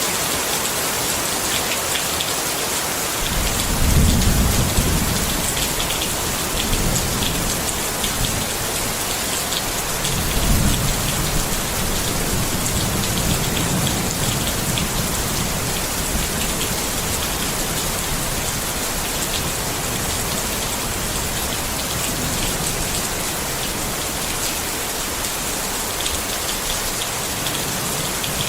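Steady rain pattering on a tent, a dense even hiss of drops. Low thunder rumbles swell in about four seconds in and again around ten seconds in, each lasting several seconds.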